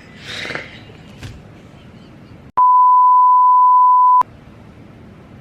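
A censor bleep: one steady single-pitched tone, about a second and a half long, starting about halfway in, with the audio beneath it cut out. Before it there is a faint rustle.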